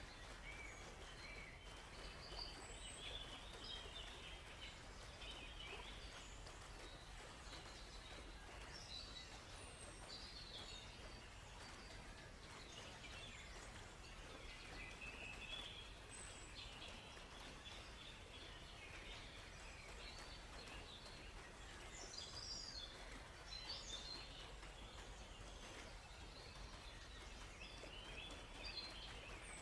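Faint forest ambience: many small birds chirping and calling on and off, with a few louder bursts of calls, over a steady background hiss.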